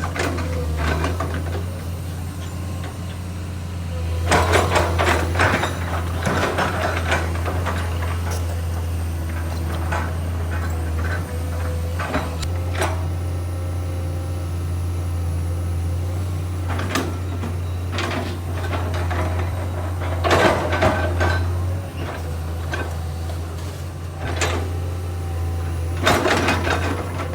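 Komatsu PC210 excavator's diesel engine running with a steady low drone, overlaid three times by bursts of metallic clanking and scraping from the working machine.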